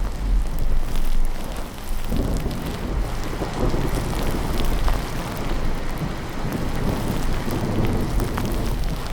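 Steady rain with low, rolling thunder rumbling underneath.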